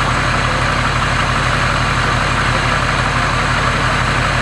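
Ford Powerstroke turbo-diesel V8 idling steadily after its first start following a rebuild, a constant low rumble with a steady higher hiss.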